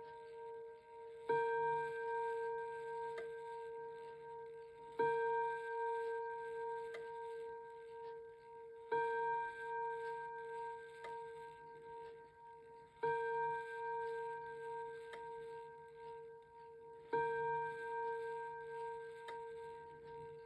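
Seth Thomas Northbury electric chime clock striking on its chime rod, one slow stroke about every four seconds, each left ringing until the next. A faint click from the movement falls midway between strokes.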